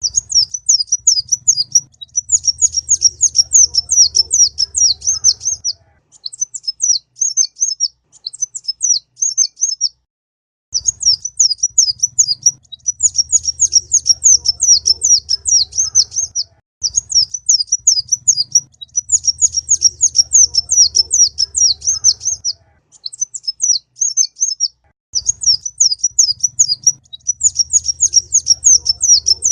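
Kolibri ninja (purple-throated sunbird) singing: rapid strings of high, thin chirps in phrases of a few seconds with short pauses between, the same phrases coming round again and again. A faint low hum sits under the longer phrases.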